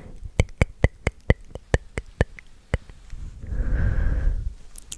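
A quick run of about a dozen sharp, close-miked clicks, roughly four or five a second, followed about three and a half seconds in by a soft breathy rush with a low rumble, the kind of trigger sounds made right at an ASMR microphone.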